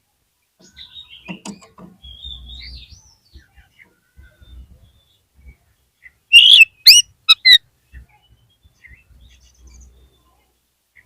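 Oriental magpie-robin (kacer) singing: soft warbling, whistled phrases in the first few seconds, then a loud burst of four or five sharp sweeping whistles about six to seven and a half seconds in.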